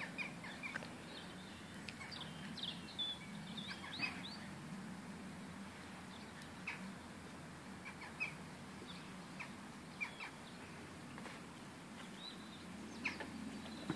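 Birds chirping in short, scattered calls over a faint steady background, busiest in the first few seconds and again near the end.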